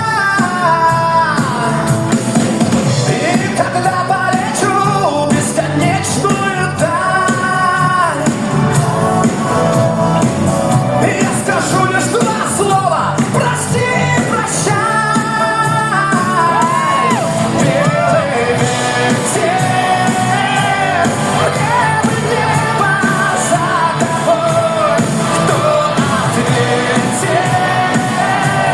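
Male voice singing a pop song live over full band accompaniment, the sung notes held with vibrato.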